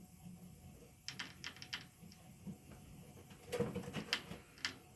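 Faint scratchy rustles and clicks in two short flurries, about a second in and again near the end, from a bird trapped in a blanket being wrestled toward a cardboard box.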